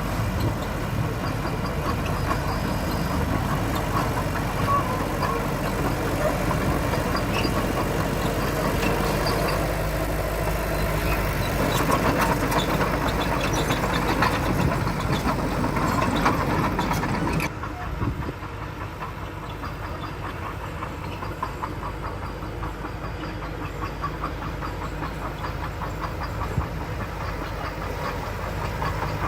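Diesel engines of heavy earthmoving machinery running steadily. About two-thirds of the way through the sound drops abruptly and gives way to a quieter, fast, even clatter.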